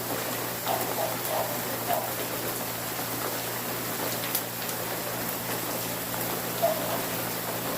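Steady rain falling, a constant hiss with a few sharper drops striking a surface.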